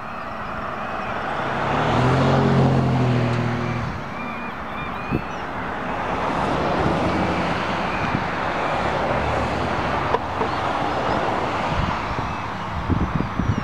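Road traffic: a motor vehicle passes close by about two seconds in, over a steady background of traffic, with small birds chirping through it.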